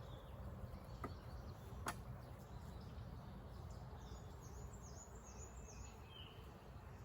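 A bird singing a quick run of about five high, falling chirps about four to six seconds in, then one short chirp, over a low steady rumble. Two sharp clicks come about one and two seconds in.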